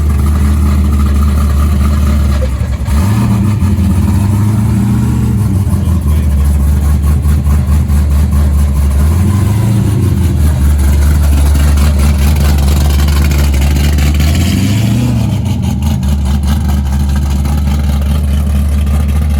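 A car engine running loudly with a deep steady drone, revved up and let back down three times.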